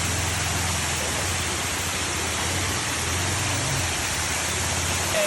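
Waterfall rushing: a steady, even wash of falling water, with a low steady hum underneath that stops suddenly near the end.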